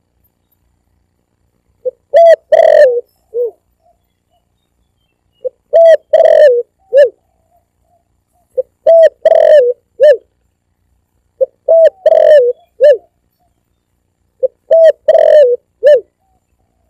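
Spotted dove (tekukur) cooing, played loud as a hunting lure call. It gives five repeated phrases about three seconds apart. Each phrase is a short note, a quick pair of coos, a longer wavering coo and a final short coo, with dead silence between phrases.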